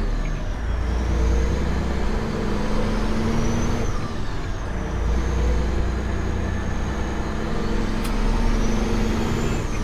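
Semi truck's diesel engine idling steadily, heard from inside the cab, with a faint high whine that slowly rises and drops back twice.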